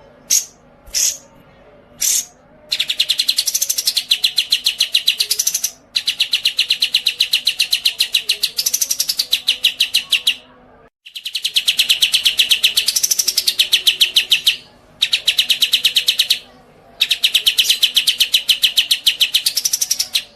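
Songbird song: a few short chirps, then a series of long, fast chattering trills lasting several seconds each. Each trill sweeps up and back down in pitch partway through, and the trills are broken by brief pauses.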